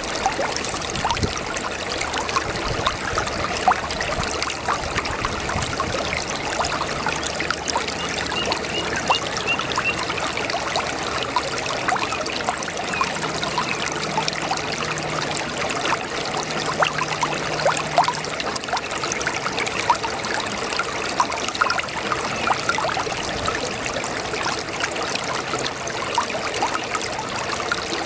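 A small brook babbling steadily over stones, a dense, even trickling and splashing of running water.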